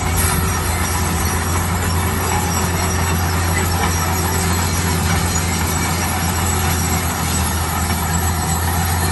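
Heavy road-construction machinery running steadily: a deep, constant engine drone under a continuous broad mechanical noise, with no change in pace.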